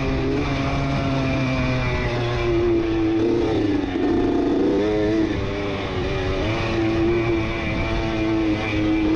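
1989 Honda CR80's two-stroke engine running hard under race throttle. Its pitch holds, wavers and dips in the middle, then picks up and holds again.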